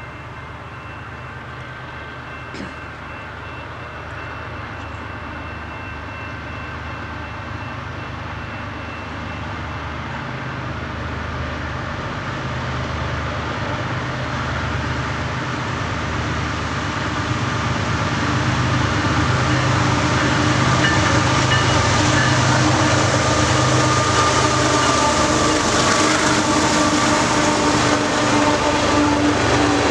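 Train approaching and passing: the diesel locomotive's engine and the rolling train grow steadily louder for about 18 seconds, then run loud and steady as the locomotive comes by close up.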